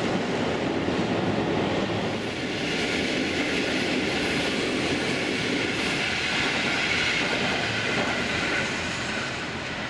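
Electric passenger train running past, a steady noise of wheels on the rails, with a higher hiss coming in about two and a half seconds in and easing slightly near the end.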